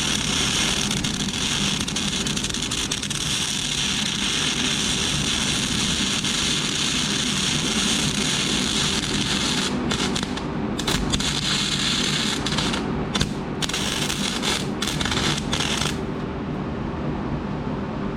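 Flux-cored wire-feed welding arc crackling steadily. It breaks off briefly a few times in the second half, as the trigger is released between beads, and stops about 16 seconds in. A steady low hum continues underneath.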